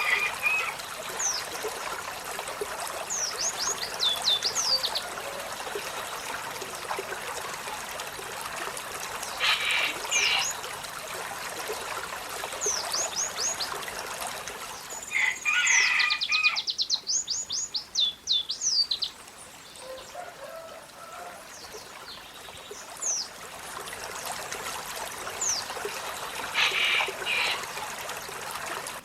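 Olive-backed sunbird singing: groups of quick, high, downward-sweeping notes, with a longer fast run of them about halfway through. A few short, harsher chirps come in between. A steady trickling-water sound runs underneath.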